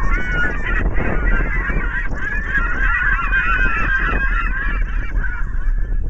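Recording of many overlapping honking animal calls played at high volume through a competition car audio system, over a steady deep bass drone. The calls cut off near the end.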